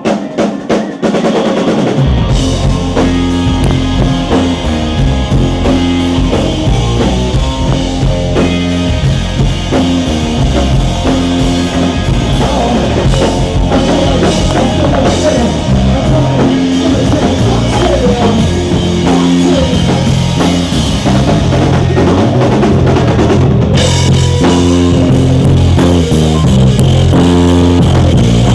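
A live rock band playing: a few drum hits open, then the drum kit, bass and guitar come in together about two seconds in on a steady groove, which gets fuller and a little louder near the end.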